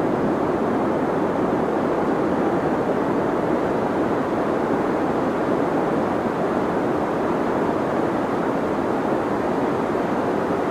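Deep white noise for sleep: a steady, unchanging rushing noise, weighted toward the low and middle range with little hiss on top.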